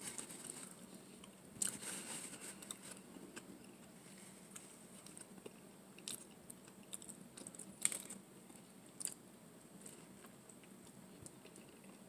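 A person chewing and biting food close to the microphone: soft mouth sounds with scattered sharp, crisp clicks and crackles.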